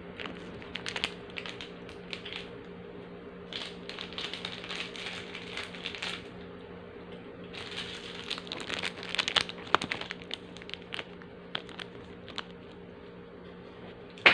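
Crunchy biscuits being chewed close to the microphone: crisp crackling in three main spells, then a few scattered single crackles, with a sharp click at the very end.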